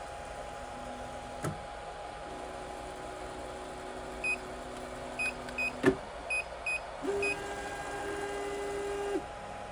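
3D printer's stepper motors whining steadily as the axes move, in two runs, with a string of short beeps about four to seven seconds in and two sharp clicks. A steady fan hum runs underneath.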